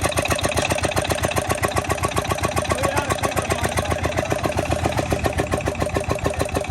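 Petter diesel engine running steadily with a rapid, even beat, powering a small tubewell pump.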